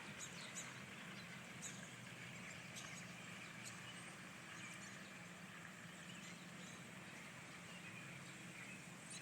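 Faint outdoor background: a steady low hum with a few faint, short, high-pitched ticks scattered through it.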